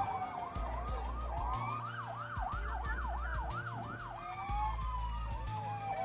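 Emergency vehicle sirens: one rapid yelp rising and falling a few times a second, overlapping a slower siren whose long tone falls in pitch, with a low music bed underneath.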